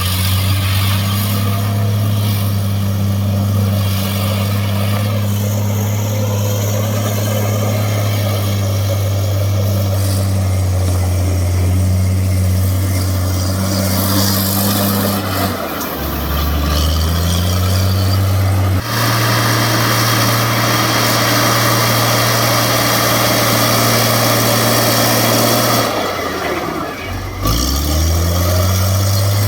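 Heavy earthmoving machine's diesel engine running close by. About halfway through its note drops and climbs back up, then it runs louder with a hiss for several seconds; near the end it dips and rises again.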